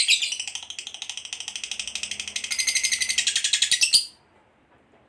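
Lovebird giving its long ngekek chatter: a fast, even trill of harsh, high chirps that cuts off suddenly about four seconds in.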